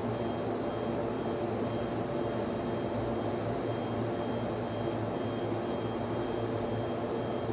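Steady hum and fan noise of a server room, with a constant low drone and several held tones from the equipment's cooling fans, plus a faint high whine that comes and goes.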